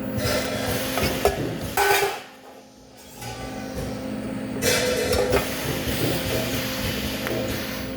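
Metal workshop noise: a steady machine hum with clanks and knocks of metal, dropping away briefly about two seconds in.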